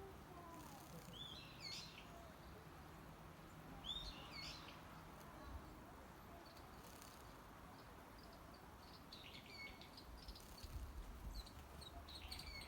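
Faint wild bird calls: four short groups of quick, high chirps spread over several seconds, over a quiet outdoor background.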